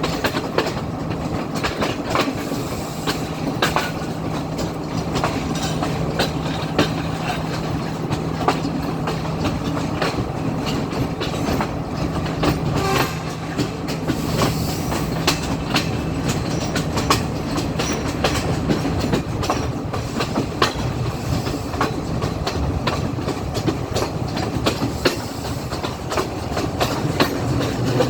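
Class S14 diesel multiple unit running along the line: steady rumble, with the wheels clicking irregularly over rail joints. A low steady hum drops away about two-thirds of the way through.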